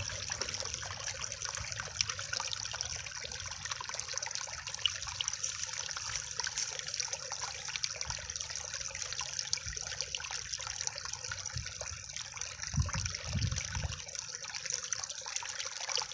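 Small waterfall in a creek runoff, water falling and splashing steadily with a trickling hiss. A brief low rumble comes about 13 seconds in.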